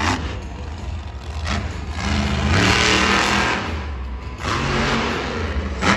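Monster truck engine running and revving, its note rising about two seconds in, with a loud surge of noise around the middle.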